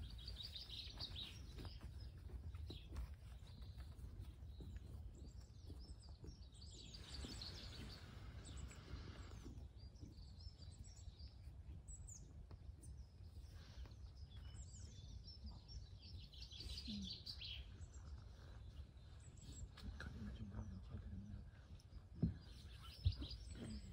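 Small birds chirping and singing on and off over a steady low background rumble. There is a short hiss about seven seconds in and two sharp knocks near the end.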